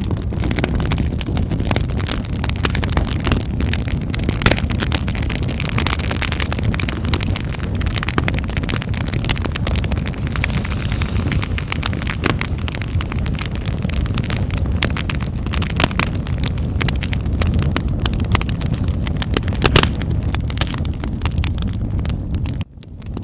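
Wood fire in a fireplace crackling, with frequent sharp pops over a steady low rumble of the burning fire. The sound cuts out for an instant near the end.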